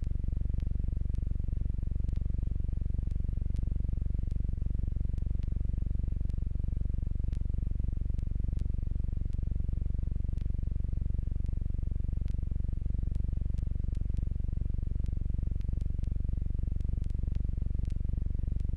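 Jabiru J120 light aircraft's engine running steadily at low power after landing, heard as a low, even hum.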